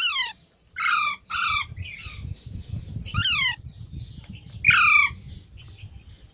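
Parrot squawking: about six short harsh calls, each falling in pitch, the loudest a little before five seconds in.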